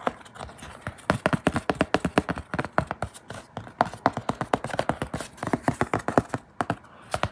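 Rapid, uneven tapping on a hard object, many short clicks a second, made as an ASMR trigger sound.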